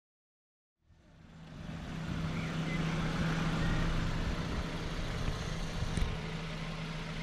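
Silence for under a second, then a car engine idling steadily, with one short click about six seconds in.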